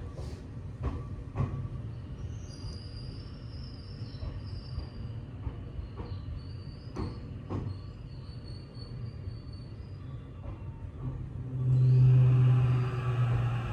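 Tokyo Metro 8000-series train heard from on board, its wheels knocking over rail joints a handful of times with a faint high wheel squeal. A loud low hum comes in near the end.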